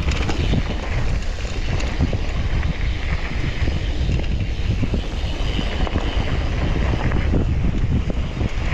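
Wind buffeting the action-camera microphone while a mountain bike rides down a dirt trail, with a steady low rumble of tyres over the ground and constant small clicks and rattles from the bike.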